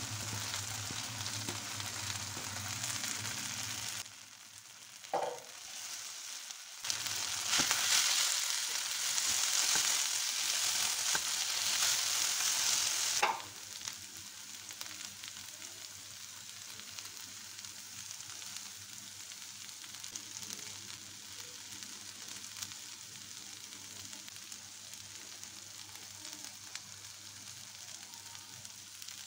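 Shredded cabbage, carrot and green pepper stir-frying in a non-stick pan, sizzling steadily. The sizzle grows much louder for about six seconds in the middle, then settles to a quieter hiss.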